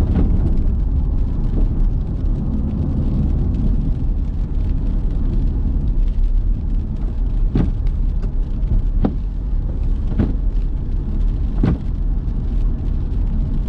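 Car driving: a steady low rumble of engine and road noise, with four sharp clicks about a second or so apart in the second half.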